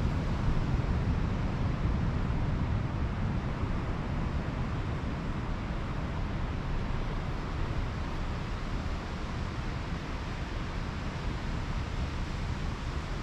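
Pacific Ocean surf washing steadily on the beach, a continuous rush heaviest in the low rumble, a little louder in the first second and easing slightly after that.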